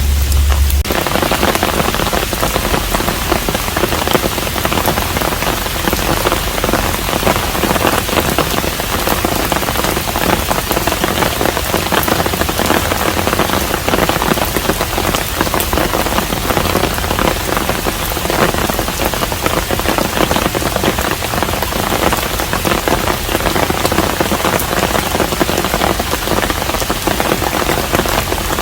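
Steady heavy rain falling on a hanok, a dense even patter of drops. A deep low rumble cuts off about a second in.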